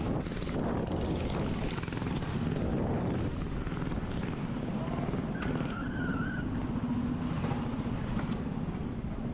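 Mini bike engine running steadily with a rough low rumble, with a short wavering high tone about midway.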